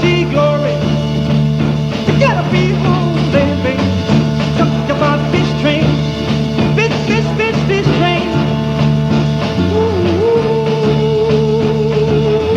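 Instrumental break of a 1960s pop-rock band: quick bending lead notes over a steady bass and drum beat, ending in a long held note.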